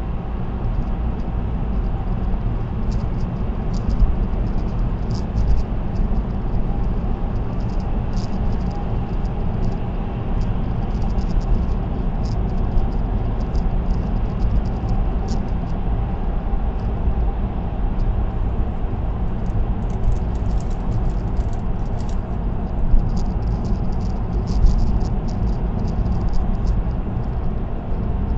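Steady road and tyre noise with engine hum from a car cruising on an expressway, heard from inside the car. Faint small ticks and rattles come and go over it.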